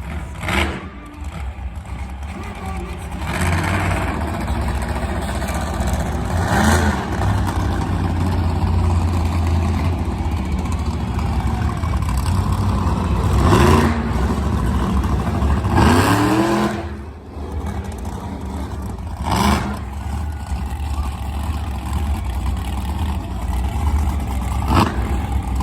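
Monster truck engine running with a heavy low rumble, revved hard in several short blips that rise and fall in pitch.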